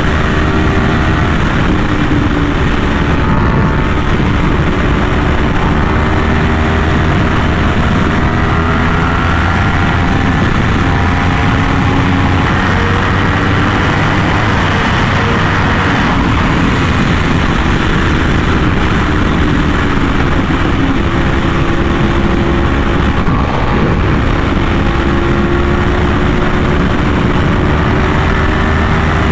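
Yamaha R1M's crossplane inline-four running through an SC Project aftermarket exhaust, cruising at a steady, loud engine note that drifts gently up and down in pitch.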